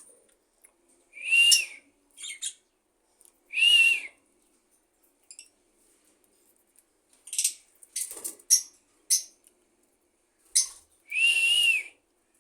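Budgerigar calling: three drawn-out calls that rise and then fall in pitch, with short, sharp chirps in between.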